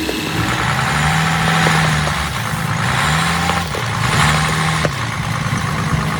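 Bus engine revving in about three surges under heavy load as it strains to pull a stubborn tree, dropping back between the pushes.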